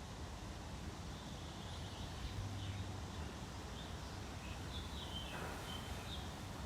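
Scattered faint, high-pitched bird chirps, a cluster of short notes in the second half, over a steady low outdoor rumble.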